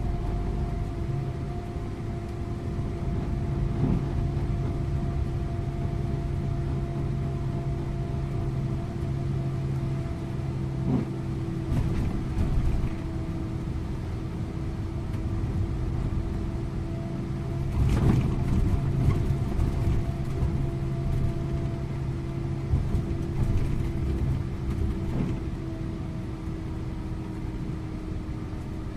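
Scania InterLink coach under way: the engine drones at a steady pitch over road rumble. A few knocks and rattles come a little past the middle.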